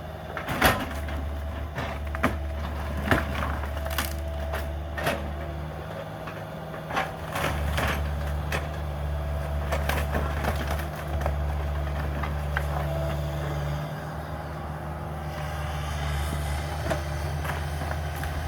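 Cat 305 mini excavator's diesel engine running steadily while timber framing cracks and splinters in repeated sharp snaps, which thin out over the last third.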